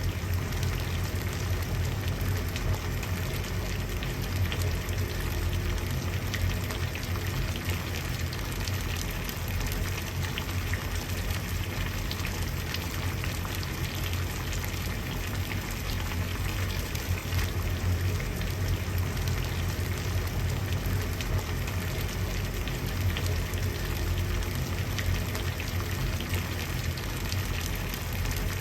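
Water boiling: a steady, dense bubbling over a low rumble.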